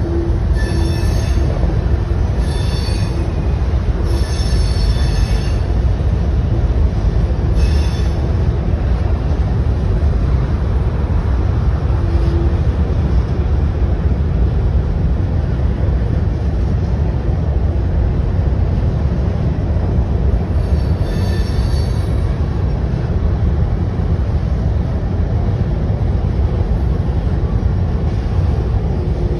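Loaded covered hopper cars of a grain train rolling over a steel trestle bridge: a loud, steady rumble, with short high-pitched wheel squeals several times in the first eight seconds and once more about two-thirds of the way through.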